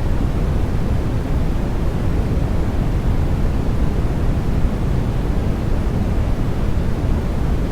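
Continuous sleep-aid white noise: a steady, deep rushing hiss with most of its weight low down, unchanging throughout.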